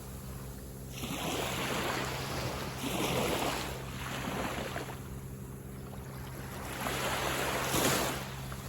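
Sea waves breaking and washing up a beach, with three surges of surf: about a second in, around three seconds in, and a louder one near the end.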